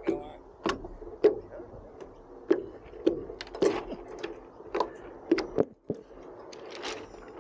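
Hollow knocks coming irregularly, about one or two a second, each ringing briefly: small waves slapping the hull of a radio-controlled A Class yacht, picked up by a camera mounted on board.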